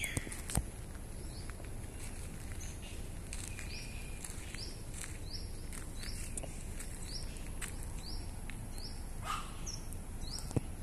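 A bird calling over and over, one short high note about every two-thirds of a second, over a steady outdoor background hiss.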